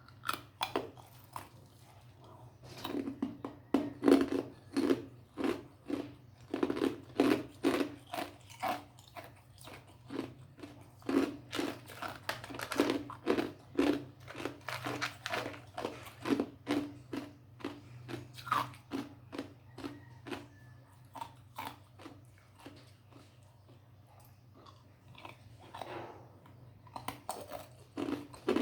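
A person chewing and crunching ice with their teeth: a long run of sharp crunches, two or three a second, with quiet gaps near the start and about three-quarters of the way through, over a steady low hum.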